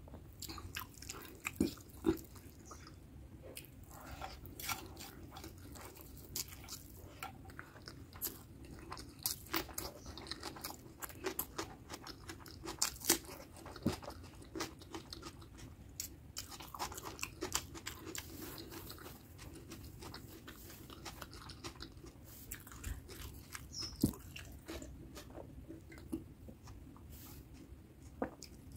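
Close-miked chewing of mutton curry and basmati rice eaten by hand, with scattered sharp mouth clicks and crisp bites at irregular intervals.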